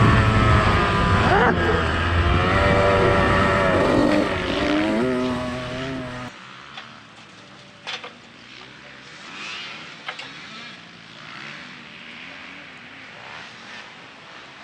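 Dirt bike engines revving, their pitch rising and falling as the bikes ride. They cut off abruptly about six seconds in, leaving a quiet background with a couple of short knocks.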